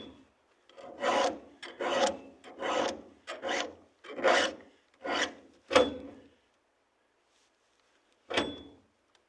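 Chainsaw chain being sharpened with a hand file: about seven rasping strokes, each about half a second, with a short pause after each, then a silent gap and one last stroke near the end.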